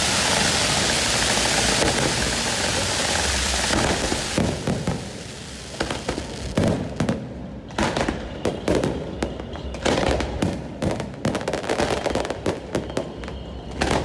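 A fireworks display: after a few seconds of steady rushing noise, a rapid, irregular string of bangs and crackling pops begins and carries on, some louder blasts standing out.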